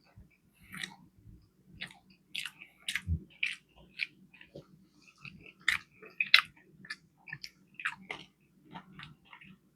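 Close-miked chewing of crunchy food, with irregular crackling crunches a few times a second and wet mouth sounds.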